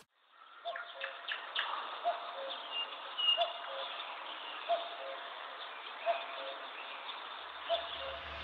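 A bird calling outdoors: a short two-note call repeated about every second and a half over a soft, steady background hiss.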